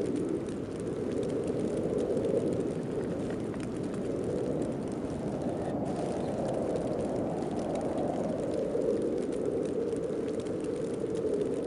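Howling wind of a heavy snowstorm, a steady rushing noise whose pitch swells and eases in slow gusts every four or five seconds.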